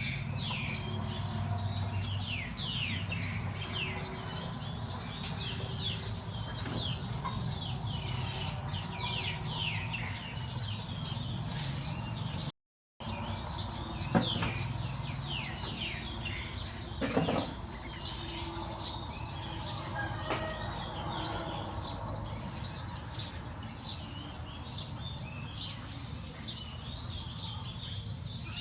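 A chorus of chicks peeping continuously: rapid short, high notes that fall in pitch. It breaks off for a moment about halfway through.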